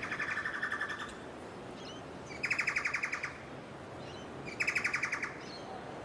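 A bird calling three times with a rapid trill of about ten pulses a second, each burst lasting about a second and the bursts about two seconds apart, over a steady background hiss.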